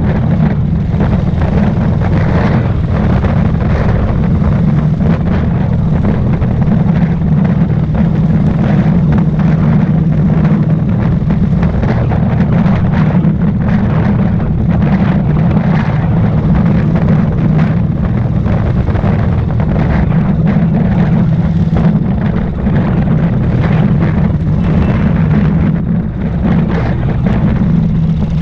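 Royal Enfield Thunderbird motorcycle's single-cylinder engine running steadily while riding, mixed with a rough rush of wind on the microphone.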